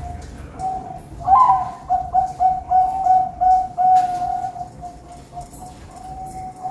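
Zebra dove (perkutut) cooing: a fast run of even, repeated coo notes starts about a second in, then softens after a few seconds.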